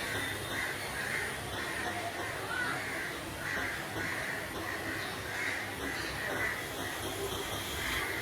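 A bird calling over and over, short calls coming about twice a second over a faint steady background.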